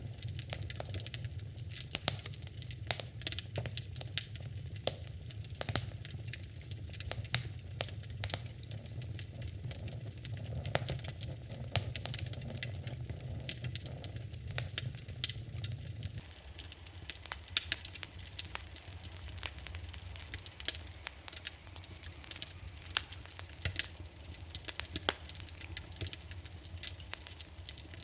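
Wood fire in a fireplace crackling, with many sharp irregular pops and snaps over a low steady rumble of the flames; the low rumble drops suddenly a little over halfway through.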